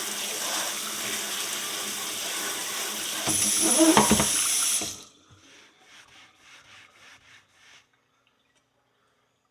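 A water jet spraying water into a kitchen sink to rinse grime off a horseshoe. The hiss gets louder about three seconds in and cuts off suddenly about five seconds in, followed by a few faint pulses.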